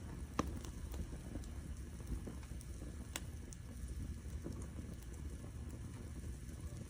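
Firewood burning: a steady low rumble of flames with scattered sharp crackles and pops.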